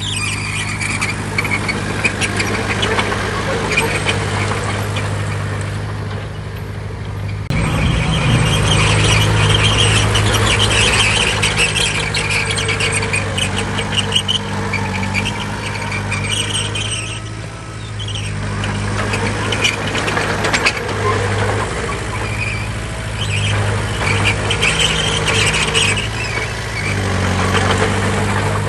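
Bulldozer's diesel engine working under load, with a squeal from the crawler tracks coming and going throughout. The engine note gets louder abruptly about a quarter of the way in.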